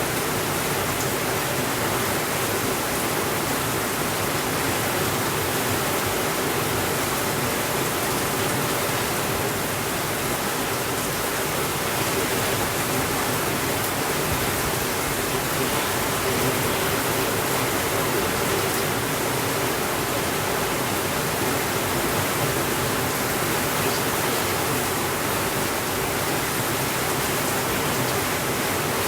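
Steady rainfall, an even hiss with no changes in level and no thunder.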